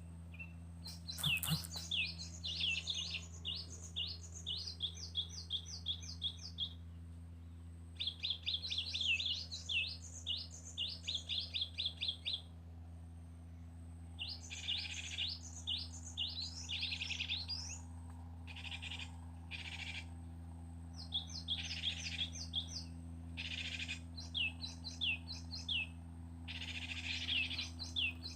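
Cinereous tit (gelatik batu) calling in bursts of rapid, high, down-sweeping chirps, each burst lasting a few seconds with short pauses between, over a steady low hum.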